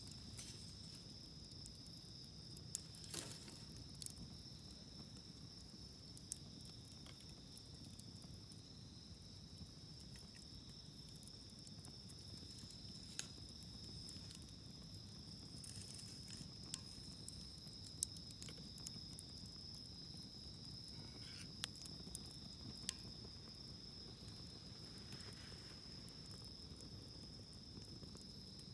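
Insects chirring in a steady high trill, with scattered sharp pops and crackles from firewood burning in a campfire.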